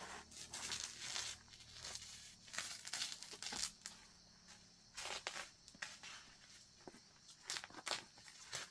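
Irregular rustling and tearing noises in short bursts.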